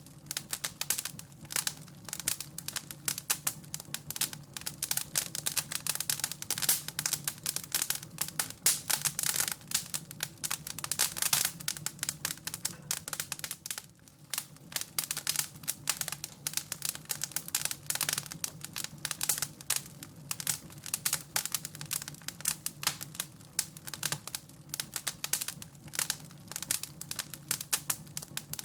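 Wood fire crackling and popping in a fireplace: a dense, continuous run of sharp small pops over a low steady hum.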